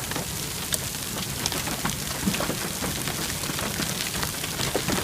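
Heavy rain with hail: a steady hiss of downpour dotted with many sharp ticks of drops and hailstones striking a hard surface.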